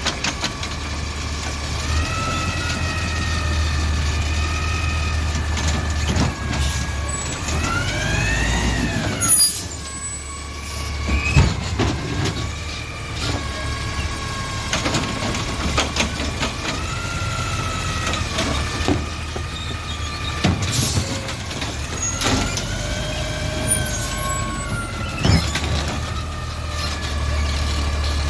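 Garbage truck running, with a high whine that rises and falls in pitch several times over a low engine rumble, and scattered knocks and clanks.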